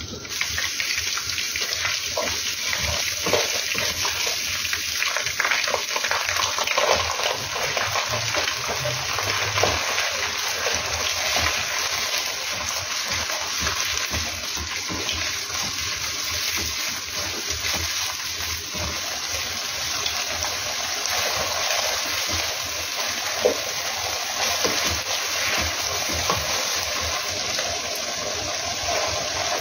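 Chicken pieces sizzling steadily in hot oil in a non-stick wok, with scattered clicks and scrapes from the plastic spatula stirring them against the pan.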